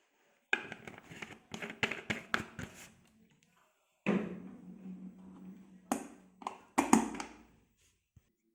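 Knocking and clattering of objects being handled, with a steady low hum for a few seconds in the second half.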